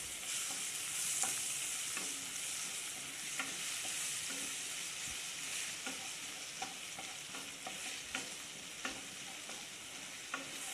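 Chopped ginger, garlic and green chilli sizzling in hot oil in a non-stick pan, stirred with a wooden spatula that taps and scrapes the pan every so often.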